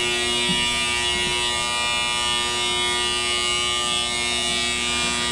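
Machinery running with a steady, even-pitched buzzing hum that holds unchanged throughout.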